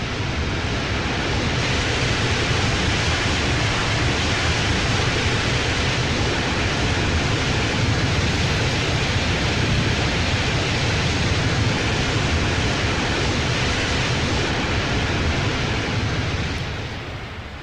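Steady, loud rushing noise of an Airbus A330 airliner on its landing, easing off near the end.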